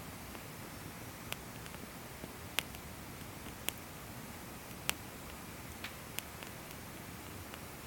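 Firewood burning in a fire stand, crackling: about half a dozen sharp pops at irregular intervals over a faint steady hiss.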